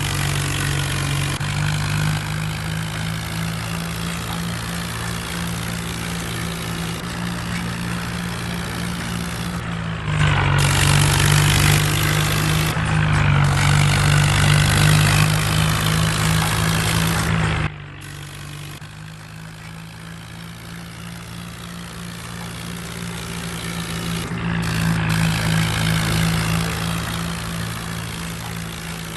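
Swaraj 855 tractor's three-cylinder diesel engine running steadily at working speed. It gets suddenly louder about ten seconds in, drops back sharply a few seconds later, then swells again near the end.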